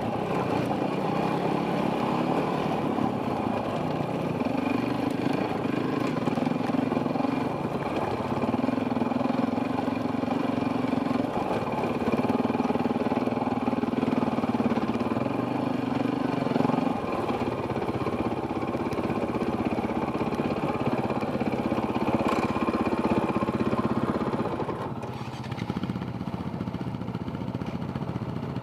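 Enduro dirt bike engine running on a trail ride, with the throttle opened and eased in steps so the pitch holds, then shifts every second or two, heard from a helmet camera. The engine settles lower about 25 seconds in.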